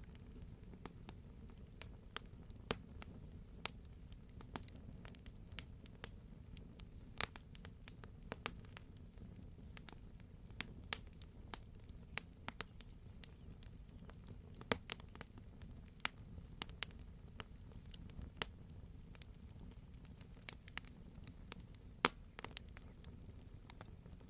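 Campfire burning, with a steady low rumble and sharp, irregular crackles and pops from the burning logs, one every second or so, the loudest about 22 seconds in.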